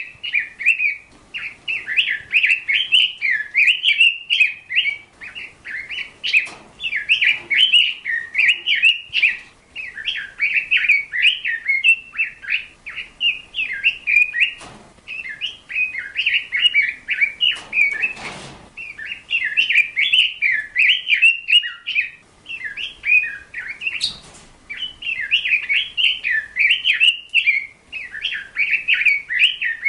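Small birds chirping rapidly and almost without pause, in quick runs of high notes. A few brief noises of another kind break in about halfway and again past the two-thirds mark.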